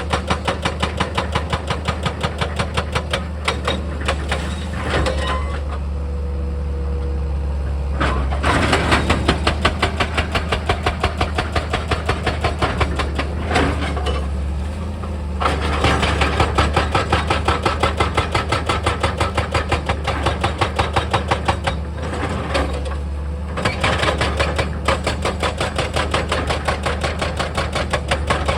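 Hydraulic percussion hammer pounding rock in a rapid, even rhythm over a steady diesel engine hum. The hammering pauses briefly three times, roughly a quarter, half and three-quarters of the way through, while the engine keeps running.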